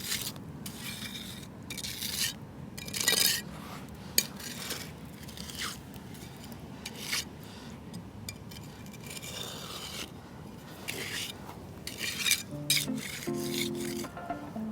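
Shovel blade scraping across wet cement in irregular strokes, used like a trowel to smooth the surface. Music comes in near the end.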